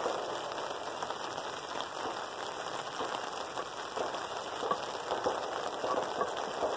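Rain pattering steadily on a canopy overhead: an even patter of many small drop ticks.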